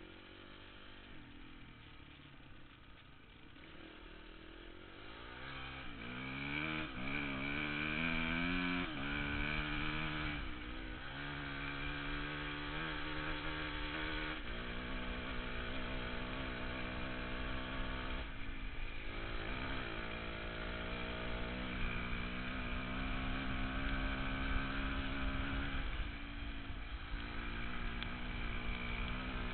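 Off-road motorcycle engine, quiet at first, then revving up about five seconds in, its pitch climbing and dropping in steps as it shifts through the gears, and then running at a fairly steady speed.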